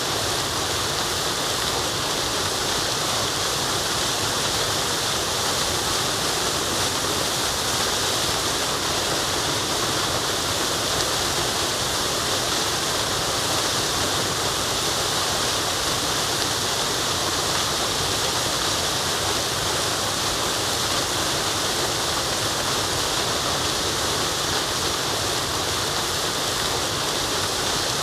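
Waterfall rushing steadily: an even, unbroken hiss of falling water, brightest in the high range.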